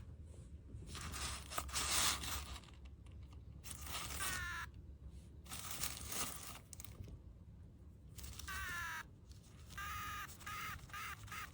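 Takeaway drink cup giving high-pitched, scream-like squeals: several that fall in pitch, then a quick run of short squeaks near the end, with the takeaway bag rustling and tearing between them.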